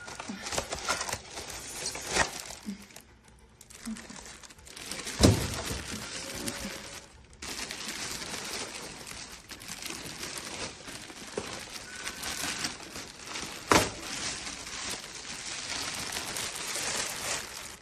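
Rustling and handling noise with a few sharp knocks, the loudest about five seconds in and again near fourteen seconds.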